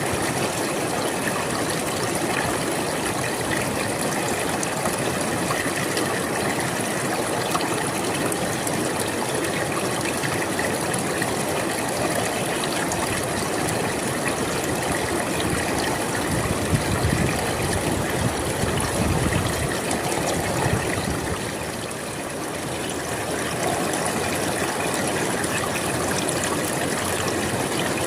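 River water flowing steadily, with a fuller low rush for a few seconds past the middle and a brief slackening soon after.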